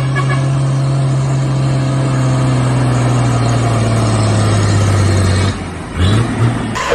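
Truck engine running at a steady pitch, then dropping away about five and a half seconds in, with a couple of short rises after.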